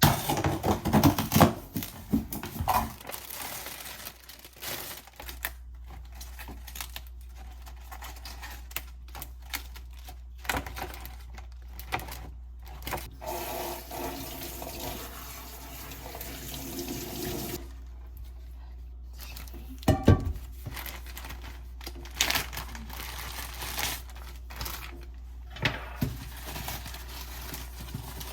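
Kitchen work sounds: water running from a tap into the sink, with clinks and knocks of dishes and utensils, loudest in the first few seconds.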